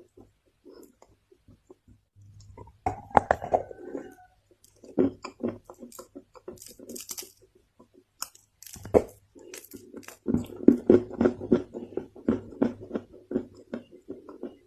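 Lumps of Chinese loess being bitten and chewed with soft, crackly crunches. The crunches come in clusters and turn into a dense run of crackling from about ten seconds in.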